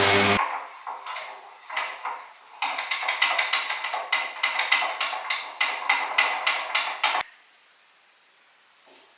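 A motor-driven tool stops running, then a few scattered knocks, then a quick run of sharp taps, about four a second, which cut off suddenly about seven seconds in.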